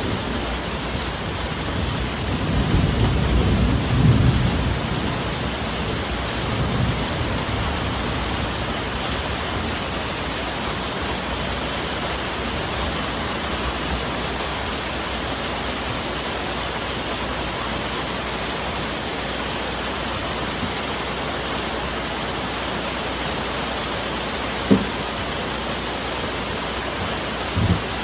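Steady rain falling in a forest, with a low rumble of distant thunder swelling a few seconds in and dying away by about seven seconds. Two short dull knocks sound near the end.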